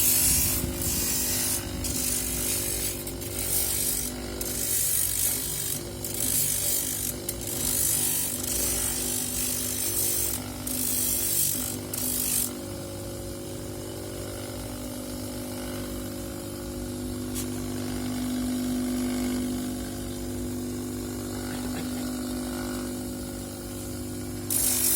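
An electric polishing or grinding tool runs with a steady hum while a seashell is pressed against it in repeated strokes, giving a rasping, high-pitched hiss each time. About halfway through the strokes stop and the tool spins on unloaded until the hiss returns near the end.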